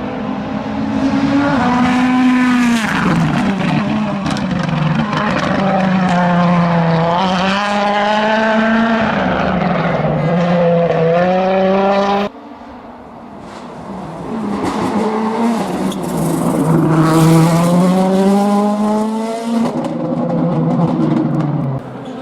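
World Rally Car engines at full throttle on a rally stage, the pitch climbing and falling sharply as the drivers rev and shift gear. The sound cuts off abruptly about twelve seconds in, then a second pass builds from quieter to loud.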